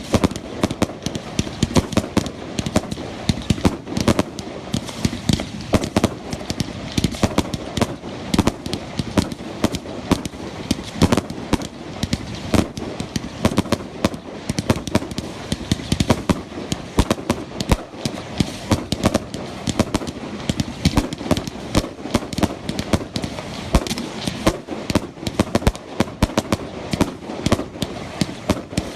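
Fireworks display: a continuous barrage of sharp bangs, several a second, over a steady background rumble.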